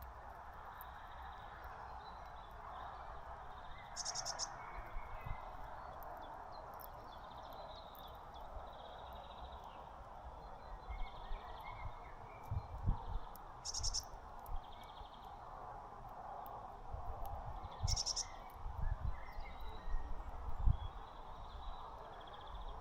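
Small songbirds chirping at a feeder, with three short high calls and fainter twittering over a steady outdoor background hiss. Scattered low thumps come mostly in the second half.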